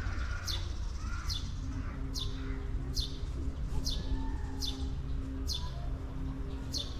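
A bird repeating a short, high, down-slurred call about once a second, over a steady low rumble.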